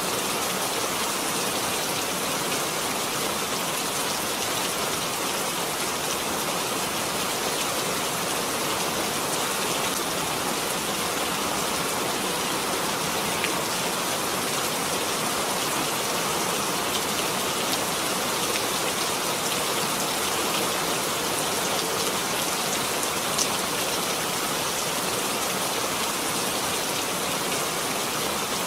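Steady rain falling, an even dense patter with a few separate drops ticking now and then.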